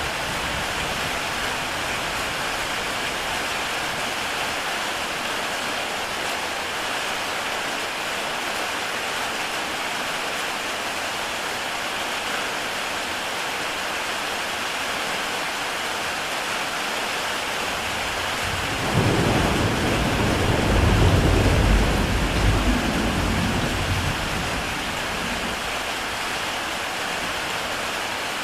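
Heavy rain falling steadily on a tile roof. About two-thirds of the way in, a roll of thunder rumbles low for several seconds, swells and fades back under the rain.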